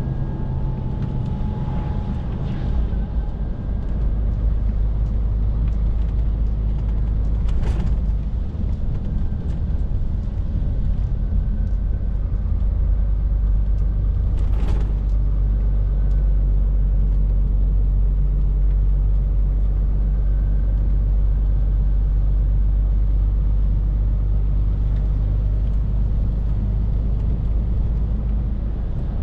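Scania R450 lorry's 13-litre six-cylinder diesel droning with road noise inside the cab while driving. The drone grows deeper and louder about three seconds in, and two short knocks come about seven seconds apart.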